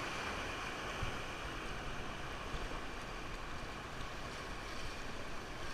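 River water rushing steadily, with wind buffeting the microphone in low thumps.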